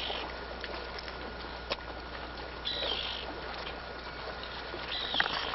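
A bird calling twice, short high calls about two seconds apart, over a steady background hiss.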